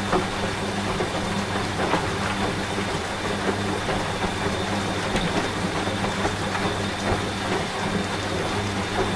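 Washing machine running with a steady low hum, mixed with steady rain.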